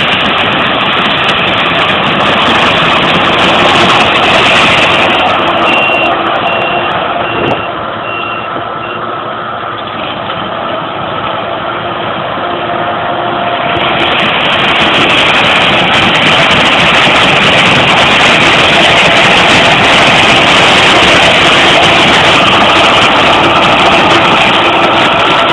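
Claas Lexion 540 combine harvester on tracks threshing grain corn: a loud, steady din of engine and threshing machinery that eases somewhat in the middle and then builds again. Around six seconds in, a short run of evenly spaced high beeps sounds over it.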